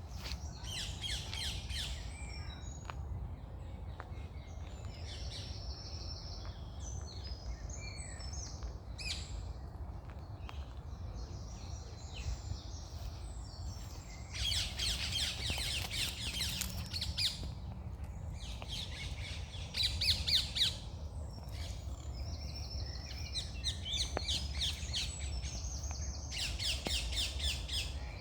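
Several birds singing and calling: bursts of rapid chattering trills alternate with short whistled phrases, the trills strongest in the second half, over a steady low rumble.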